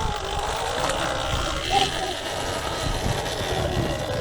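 Surron Ultra Bee electric dirt bike riding along a trail: the motor's whine wavers in pitch as the speed changes, over a low rumble of wind and ground. A brief higher chirp sounds just under two seconds in.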